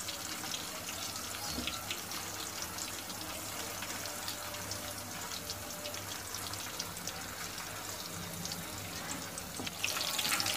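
Mutton keema koftas shallow-frying in hot oil in a kadhai: a steady sizzle with fine crackles, growing louder and busier near the end.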